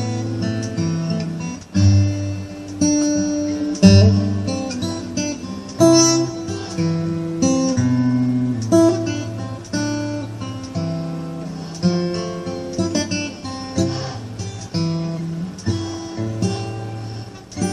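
Acoustic guitar music: plucked notes and chords that ring out, over bass notes, with no singing.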